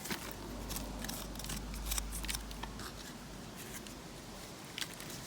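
Short, scattered scrapes and clicks of a hand tool picking at metal, over a low steady hum that drops away near the end.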